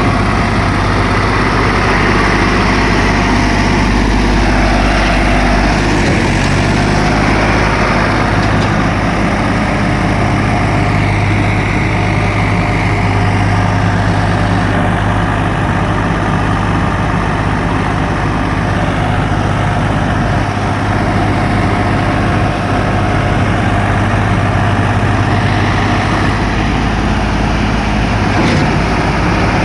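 Swaraj 855 tractor's three-cylinder diesel engine running steadily under load, pulling a fully loaded trolley through mud, with a slight change in its low note about six seconds in.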